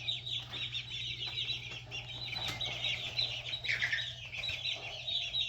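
A flock of young chicks peeping continuously: a dense chorus of many short, high, falling notes, with no pause.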